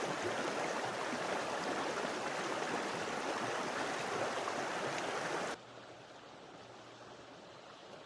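Steady rushing of a running creek, which cuts off abruptly about five and a half seconds in to a much quieter background.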